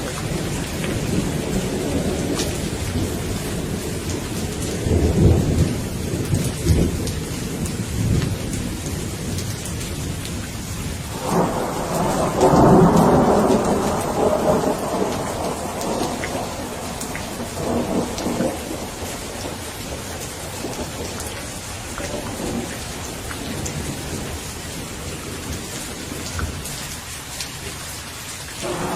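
Steady rain falling, with many small drop ticks, under repeated rolling thunder. A low rumble comes in the first few seconds, and about eleven seconds in a louder crack of thunder breaks in suddenly and rumbles for several seconds. Fainter rolls follow, and another peal starts near the end.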